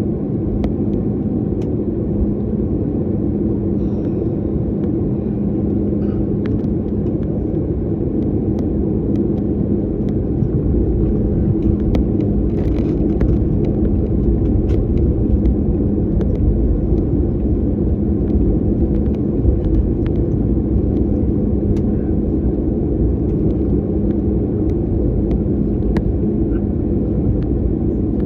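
Airliner cabin noise: a steady jet-engine and airflow rumble with a constant hum, the deep rumble growing stronger about ten seconds in, with scattered faint clicks.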